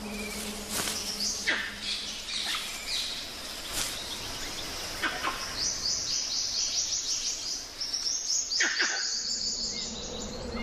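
Forest ambience with birds calling: several quick calls that sweep down in pitch, then from about halfway a fast run of high, rapidly repeated chirps, over a background of insects.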